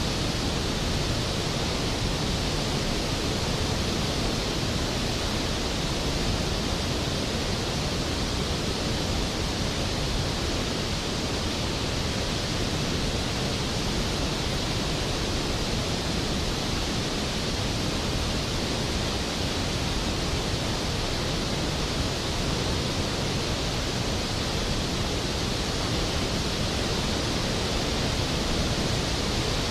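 Skógafoss waterfall: a large volume of water falling and crashing into its plunge pool, a steady, full roar of water noise with no breaks.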